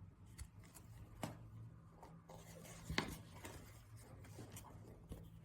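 Quiet room tone with a steady low hum and a few faint clicks and light rustles.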